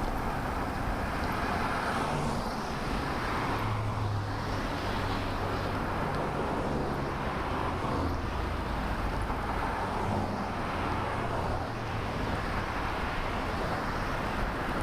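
Road traffic behind a bicycle: motor vehicles going by one after another, a steady rumble of engines and tyres that swells every couple of seconds as each one passes.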